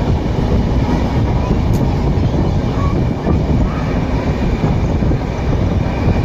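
Moving passenger train heard from a sleeper-coach window: a steady, loud rumble of the running coach with wind buffeting the microphone.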